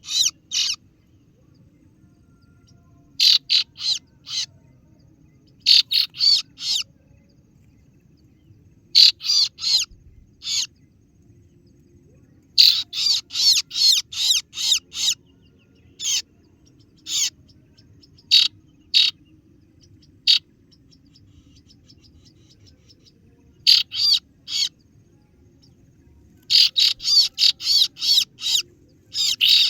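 Kaso-kaso bird lure call: sharp, shrill 'ciet ciet' notes in quick runs of several at a time, repeated after short pauses, over a faint steady low hum.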